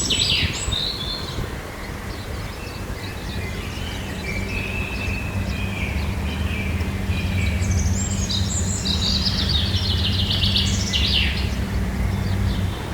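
Several birds singing and calling, with fast trills and short chirps, most busily near the start and again about two-thirds of the way through. A low steady hum runs underneath for most of the stretch.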